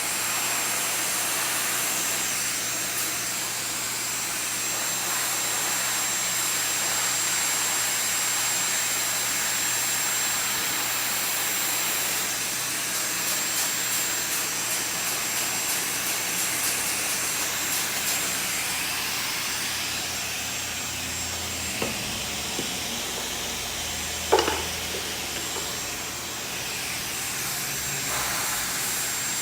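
Handheld hair dryer (blower) running steadily, with a thin high whine over its airflow noise. A sharp knock with a brief ring about 24 seconds in.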